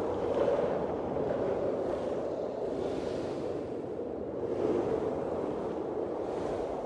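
Blizzard wind blowing in gusts: a steady low rushing, with a swell of higher hiss every second or two.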